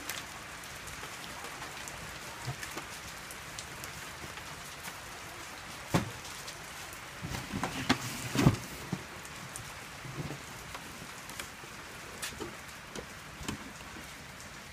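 Steady rain pattering and dripping, with a sharp knock about six seconds in and a short cluster of louder knocks about two seconds later.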